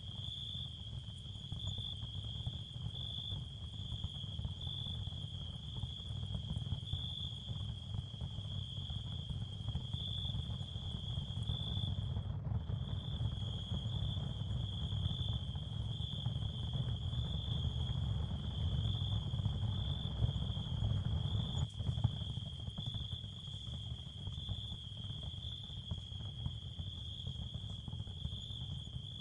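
Ambient nature soundscape of crickets chirping in a steady, high, slightly pulsing trill over a constant low rumble. The chirping stops for a moment about twelve seconds in.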